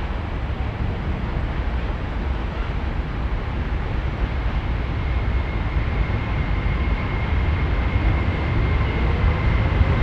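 Freight train approaching: a steady rumble that grows slowly louder, with a thin high tone from about halfway and a faint rising whine near the end.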